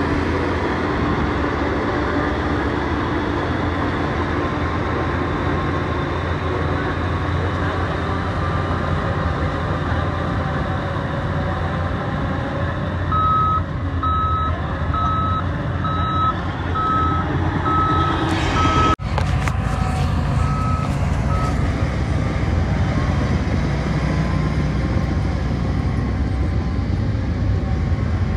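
Heavy diesel construction machinery running steadily. From about halfway through, a reversing alarm beeps about one and a half times a second. The sound drops out for an instant about two-thirds in.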